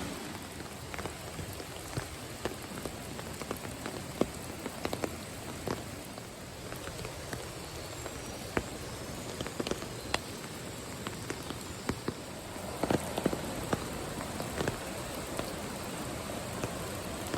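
Steady rain falling, with irregular sharp taps of individual drops striking a surface close by, a quick cluster of them about two-thirds of the way through.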